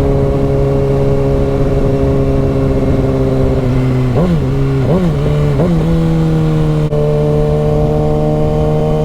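Motorcycle engine running steadily at cruising speed over wind rumble; a little after four seconds in its note dips and jumps back three times in quick succession, as with quick gear changes, then holds a slightly higher pitch.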